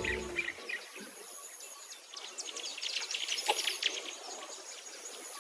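Songbirds chirping in quick runs of short, high notes, busiest in the middle, over faint outdoor hiss. The last of the background music cuts off about half a second in.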